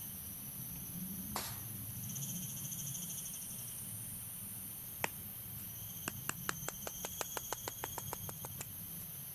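Steady high insect chirring in the background. About five seconds in, a single sharp click, then a quick run of about twenty clicks, some eight a second, lasting about two and a half seconds.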